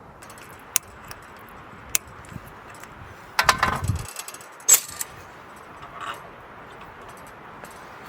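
Small hard objects being handled: a couple of sharp clicks, a jangling clatter about three and a half seconds in, and another sharp click a second later, over a steady low hiss.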